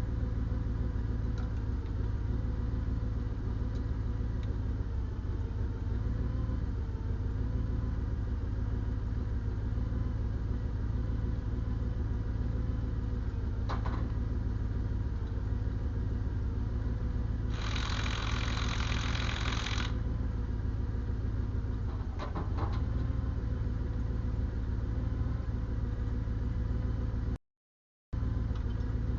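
Diesel engine idling steadily. A hiss lasting about two seconds breaks in midway, and the sound cuts out completely for under a second near the end.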